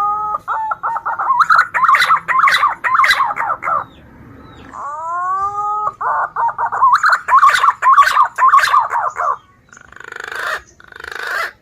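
Green pigeon (punai) calling twice: each phrase opens with a rising whistle and runs into a long, fast series of warbled notes, played as a lure call. Two short harsh, hissing bursts follow near the end.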